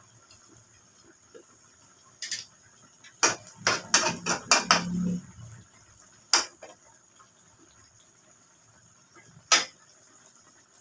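Kitchen clatter: utensils and cookware knocking and clinking. There are a few single knocks, with a quick run of them in the middle.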